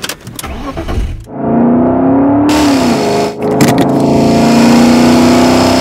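BMW car being started with the ignition key: a few clicks, then about a second in the engine catches and runs with a steady hum. It rises in pitch and drops back about three seconds in, then holds steady.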